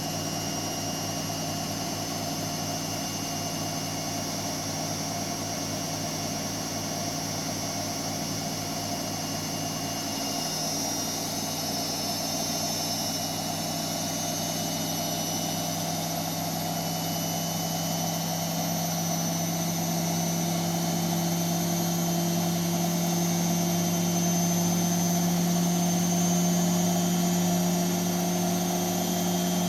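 Hotpoint Extra WMXTF742K washing machine running with a steady motor hum and whine, growing gradually louder and gaining a higher tone in the second half.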